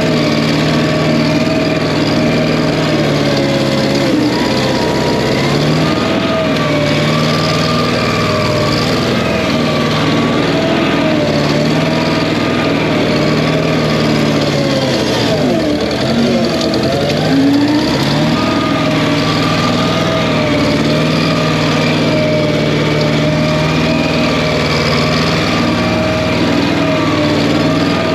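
Wisconsin engine of a Massey Ferguson 771 skid steer running steadily, its speed wavering slightly. About two-thirds of the way through, the revs sag and then pick back up.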